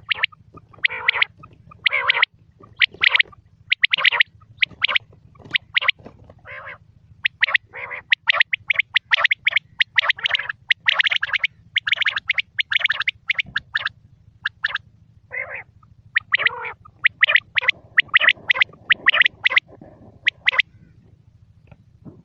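Quail calling: short, sharp calls repeated in quick runs with brief pauses, over a steady low hum.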